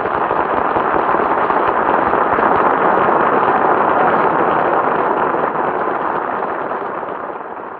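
Studio audience applauding, a dense steady clapping that fades away toward the end.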